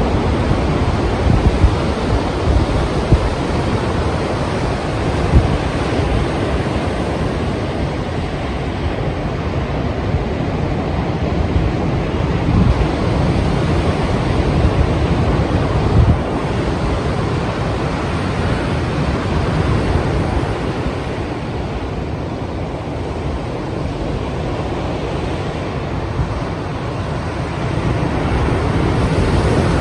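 Strong sea waves breaking in continuous surf, with wind buffeting the microphone in short gusts. The surf eases for a few seconds past the middle and swells again near the end.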